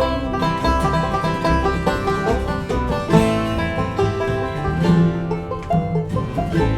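Bluegrass band playing an instrumental passage, banjo picking over guitar and a steady bass pulse, without singing.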